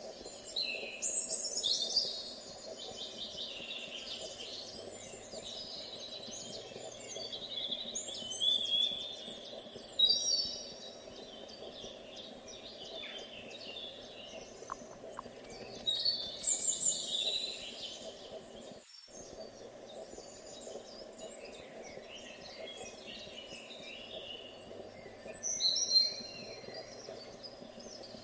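European robin singing: several short, high, warbling phrases with pauses of several seconds between them, over a steady low background noise.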